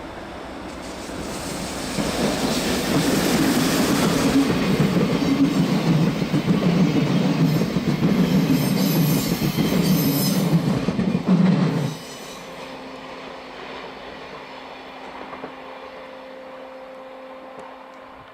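A train passing close by on the Semmering railway, wheels running on the rails with some screeching, loud for about ten seconds. The noise drops off suddenly about twelve seconds in, leaving a quieter steady hum that fades away.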